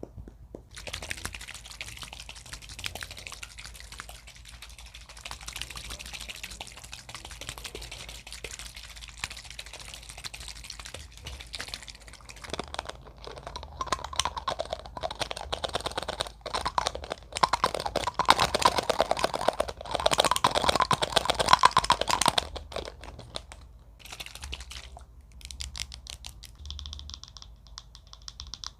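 Close-up ASMR tapping and handling sounds: rapid fingernail taps and scratches on a plastic spray bottle, coming thicker and louder in the middle stretch before easing off.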